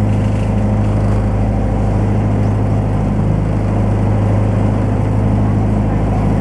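Engine of a river sightseeing boat running at a steady speed: a loud, even low drone that holds constant.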